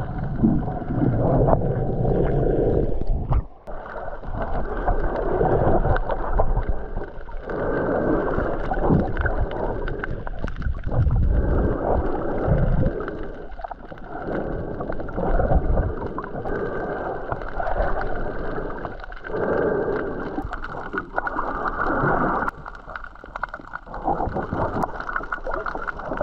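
Muffled water sound heard through a GoPro camera under water while snorkelling: sloshing and gurgling that swells and eases every few seconds.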